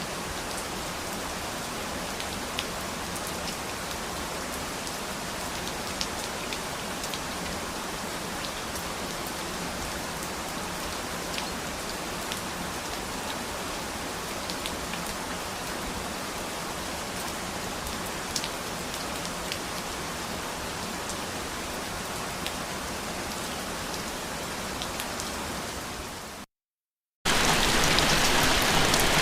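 Steady rain falling, an even hiss with scattered individual drops ticking. Near the end it cuts out for under a second, then resumes as louder, heavier rain.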